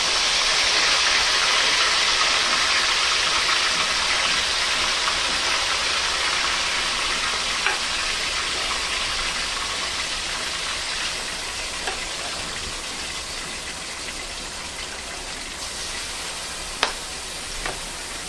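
Marinated chicken sizzling loudly in hot oil in a kadhai as it is added. The sizzle slowly dies down, and a few sharp clicks come in the second half.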